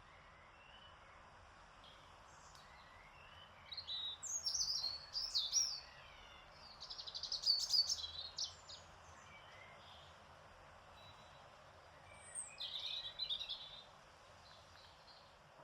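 Songbirds singing in a garden: three spells of quick, high chirping and trilling song, about four, seven and twelve seconds in, over a faint steady background hiss.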